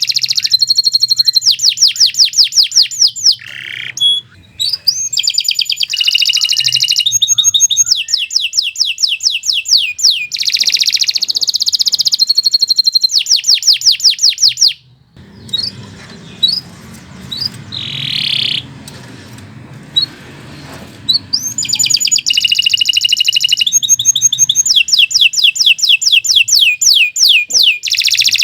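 Domestic canary singing long, rapid rolling trills of repeated high notes. About halfway through the song breaks off for some six seconds, leaving only a few scattered notes over low background noise, then resumes.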